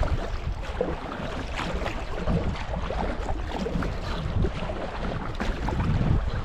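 Kayak paddle strokes splashing through creek water, irregular, over wind buffeting on the microphone.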